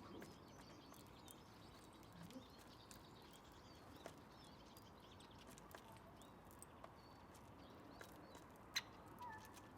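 Near silence with faint distant bird chirping and a few scattered sharp clicks, the loudest one near the end.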